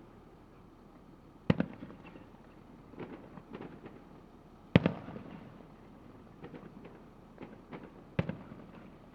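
Fireworks display: three loud bangs of exploding shells a few seconds apart, each with a short rumbling echo, and smaller pops and crackles between them.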